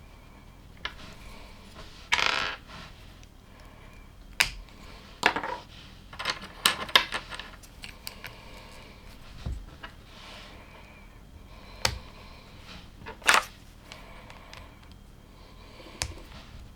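Plastic LEGO bricks being handled and pressed together: scattered sharp clicks and clacks, with a short rustle about two seconds in.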